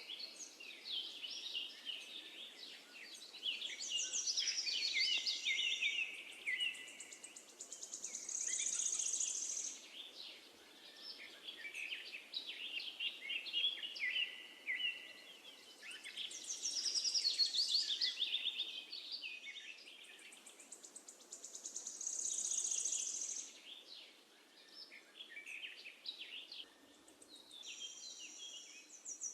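Birdsong: several birds chirping and singing in quick, varied phrases with high trills, over a faint steady background hiss.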